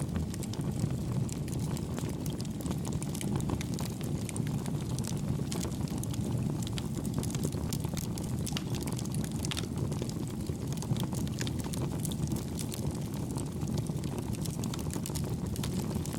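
Campfire burning: a steady low rush of flames with many small, quick crackles and pops on top.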